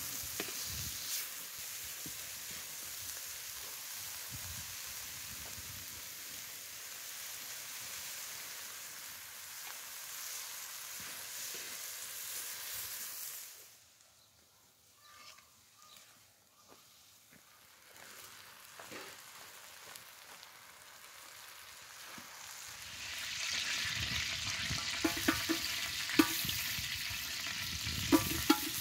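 Onion, herbs, spices and meat frying in a wide, shallow metal pan over a wood fire, sizzling steadily as a spatula stirs them. The sizzle drops away to near quiet about halfway through, then comes back louder near the end with several sharp clicks.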